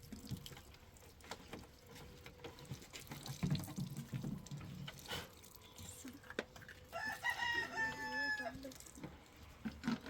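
A rooster crows once, about seven seconds in: one long call of under two seconds that drops in pitch at the end.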